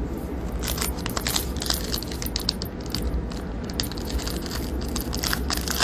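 Crinkling and crackling of a foil trading-card pack wrapper and cards being handled: a dense, irregular run of small crackles starting about half a second in.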